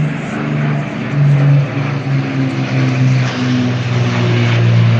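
Propeller aircraft flying a display, its engine drone shifting up and down in pitch.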